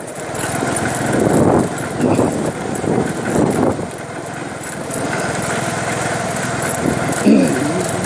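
A small engine running steadily, with its loudness swelling and easing a few times.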